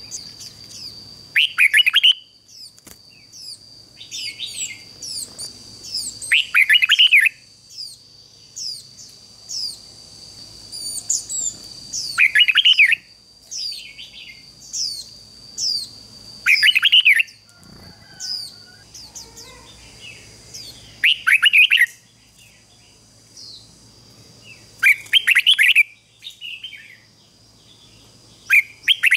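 Red-whiskered bulbul song: loud warbled phrases roughly every four to five seconds, with many quick high chirps in between, over a steady high-pitched whine.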